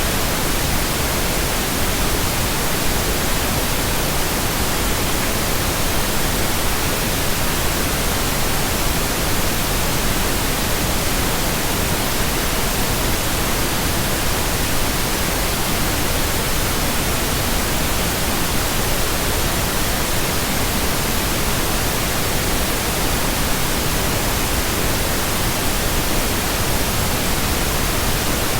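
Steady, unchanging pink noise: a continuous even hiss spread across all pitches.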